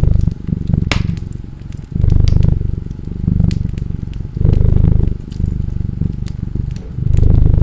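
A cat purring close up, swelling louder about every two and a half seconds with its breaths, with sharp crackles and pops of a wood fire scattered over it.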